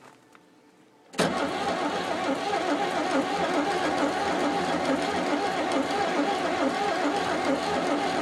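Oliver Cletrac AG-6 crawler tractor's engine starting suddenly about a second in, then running steadily: a cold start after 15 years standing.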